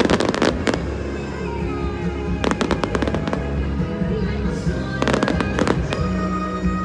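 Aerial fireworks bursting in rapid crackling clusters, three volleys about two and a half seconds apart, over music played through loudspeakers.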